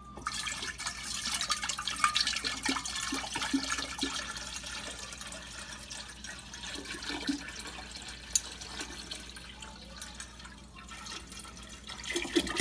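Water being poured into a small tank, splashing and trickling. The pour is heaviest in the first few seconds and tapers off about ten seconds in.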